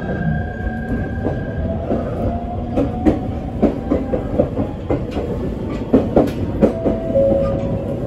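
Echigo Tokimeki Railway ET127 series electric train running, heard from inside the car: a steady low rumble with irregular clicks and knocks from the wheels on the rails, and a faint whine that rises slowly in pitch over the first few seconds.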